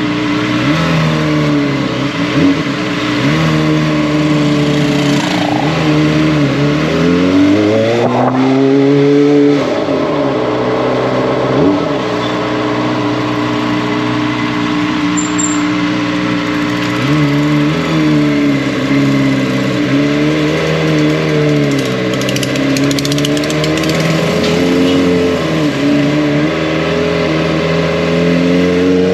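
Kawasaki ZX-25R's inline-four engine and exhaust on the move, the revs rising and falling with throttle and gear changes over wind rush. A long climb in revs peaks just before ten seconds in and drops away, followed by steadier cruising.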